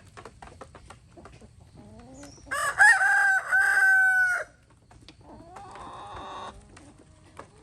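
Rooster crowing: one loud crow about two and a half seconds in, lasting some two seconds, then a fainter second crow about a second later, over scattered short clicks and clucks from the flock.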